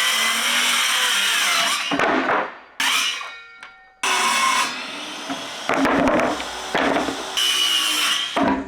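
Power saw cutting plywood in several loud bursts that start and stop abruptly.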